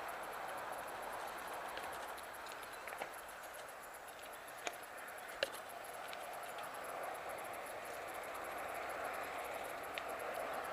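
Mountain bike rolling along a dirt trail: a steady rush of tyre noise with a few sharp knocks from the bike over the ground.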